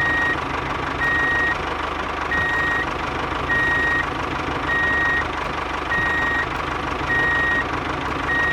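A truck's reversing alarm beeping a single steady tone about every second, over the constant running of a heavy vehicle's engine.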